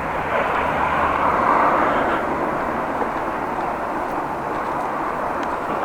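Steady outdoor street traffic rumble, swelling a little about a second and a half in.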